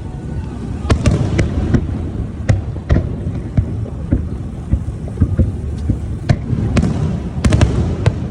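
Fireworks bursting: a run of sharp bangs and crackles at irregular intervals, with a thick cluster near the end, over a steady low rumble from the boat.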